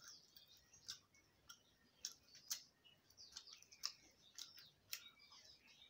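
Faint eating sounds from a person eating with her hand: chewing with scattered sharp mouth clicks and smacks, over birds chirping in the background.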